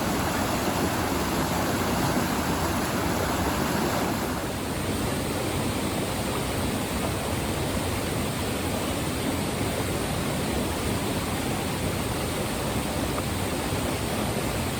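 Waterfall: a steady rush of falling water, its tone shifting slightly about four seconds in.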